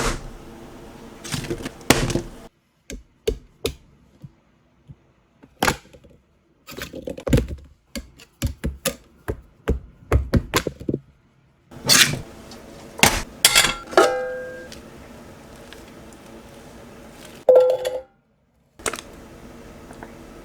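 Cookware and ingredients being handled: a run of knocks, taps and clatters, with a short metallic ring about 14 seconds in and again near 17 seconds, like a stainless pot or lid being struck. The sounds come in separate bursts that cut off to dead silence between them.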